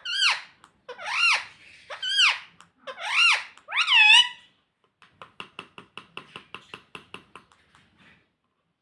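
Rose-ringed parakeet calling: five loud, high-pitched arching squawks about a second apart, then a fast, quieter chatter of short clicks, about five a second, for some three seconds.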